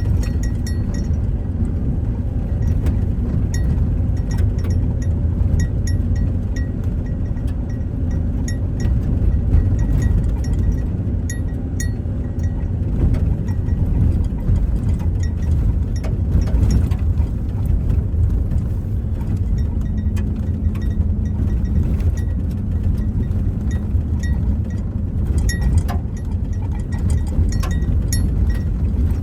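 Road noise inside a moving vehicle: a steady low rumble from the tyres and engine, with scattered small clicks and rattles throughout.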